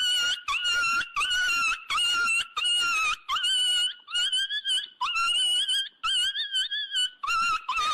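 A dog giving a long series of short, high-pitched whines, about two a second, each held briefly at a nearly steady pitch.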